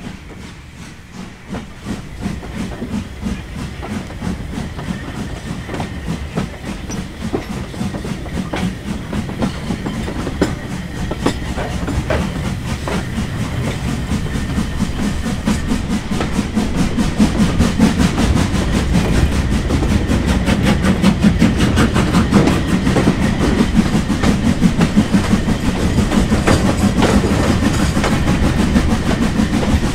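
A train approaching and growing steadily louder, with a fast, even run of rhythmic beats over a low rumble.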